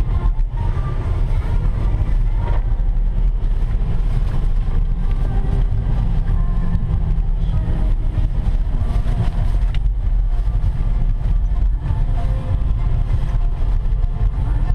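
BMW E61 engine running hard, heard from inside the cabin as the car drifts on a snowy surface: a loud, continuous low rumble.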